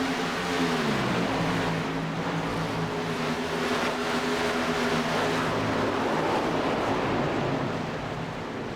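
Truck engine running hard; its pitch drops about a second in, then holds steady under a loud noisy roar that eases off near the end.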